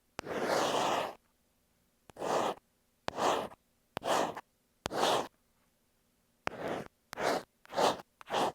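Ear pick scraping over an earphone microphone: one long scrape, then eight short strokes, each opening with a sharp click. There is a pause in the middle, and the strokes come quicker near the end.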